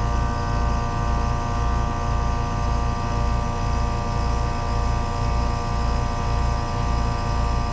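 Trane two-stage heat pump running steadily: a low hum that pulses about twice a second under several steady tones.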